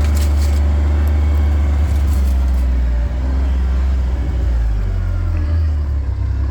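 A vehicle driving along a dirt road, a steady low engine rumble, with a few brief sharp knocks or rattles in the first two and a half seconds.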